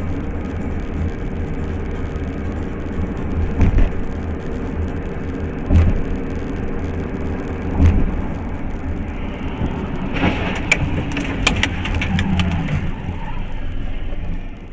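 Car driving with a steady low road and engine rumble, broken by a few heavy thumps. About ten seconds in comes a burst of sharp knocks and clatter lasting a couple of seconds.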